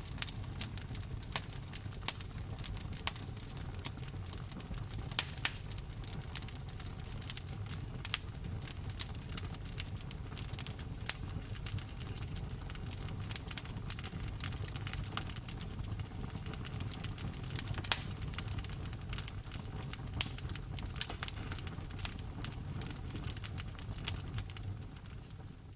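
Wood fire crackling: a dense, irregular run of small snaps and a few sharper pops over a steady low rumble from the burning logs.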